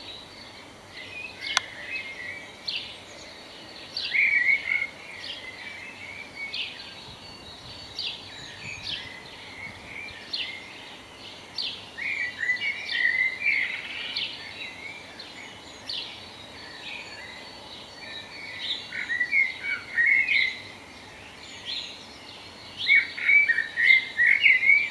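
Birdsong: warbling songbird phrases every few seconds, loudest near the end, with short high chirps in between.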